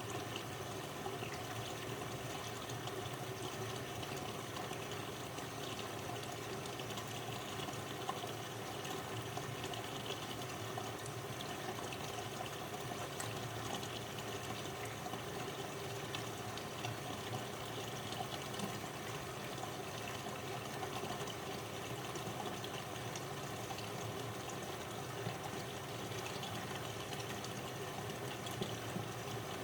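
Miele Deluxe-Electronic W761 washing machine running an empty 95° cotton cycle, with a steady sound of water in the machine.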